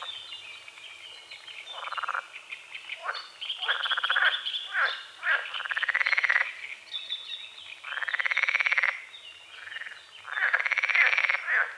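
A chorus of frogs croaking: long, rapidly pulsed rattling calls, each lasting from half a second to over a second, coming one after another with short gaps between them. Small birds chirp faintly in the pauses.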